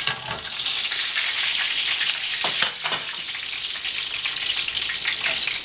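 Beef meatballs sizzling as they brown in oil in a frying pan, with two brief clatters of the cooking utensils about two and a half and three seconds in.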